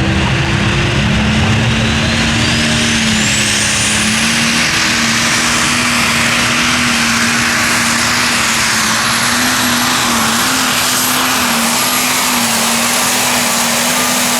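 Modified pulling tractor running at full power down the track, a loud steady engine note under a high whine that climbs in pitch about two seconds in and then holds.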